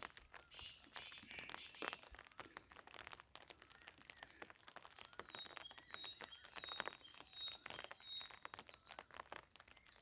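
Faint, irregular crackling and rustling throughout, with a bird calling a series of short, high, evenly pitched notes about halfway through and a few quick chirps near the end.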